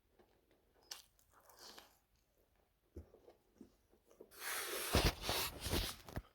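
Biting into and chewing crispy air-fried chicken drumsticks with a potato-starch coating. A few soft crunches come first, then a loud stretch of crunching about four seconds in that lasts nearly two seconds.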